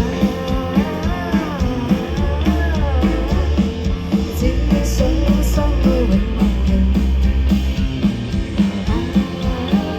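Live band music between sung lines: a rock instrumental passage with a melodic line gliding over bass and a steady drum beat.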